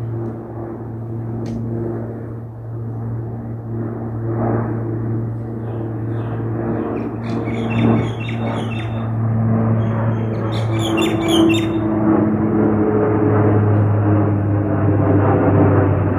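De Havilland Canada Dash 8 Q400 turboprop on its takeoff, a steady propeller drone with a low hum and several higher tones, growing louder toward the end. Birds chirp briefly twice in the middle.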